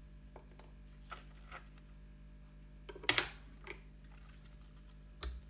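Scattered small clicks and knocks from handling the plastic RC transmitter and chassis, the loudest cluster about three seconds in and a dull low thump near the end, over a faint steady hum.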